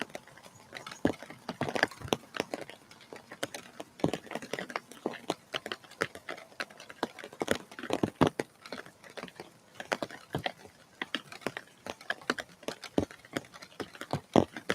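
Raindrops dripping and tapping irregularly on the feeder and surfaces close to the microphone, several sharp taps a second.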